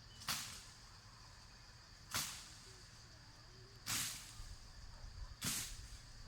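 Four short swishing strokes, evenly spaced about a second and a half to two seconds apart, over a faint steady high-pitched tone.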